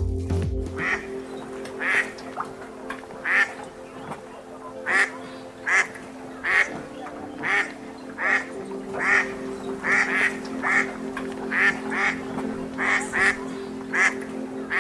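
Ducks quacking, a string of short quacks coming about one to two a second, over steady background music.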